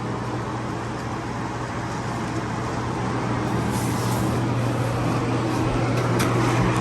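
Steady low mechanical hum with an even rushing noise that slowly grows louder, with a few light clicks near the end.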